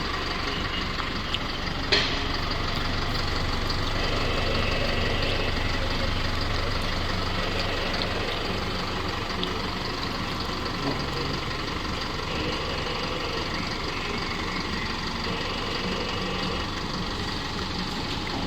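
Isuzu N series truck's 4JJ four-cylinder diesel engine idling steadily, with a single sharp clank about two seconds in.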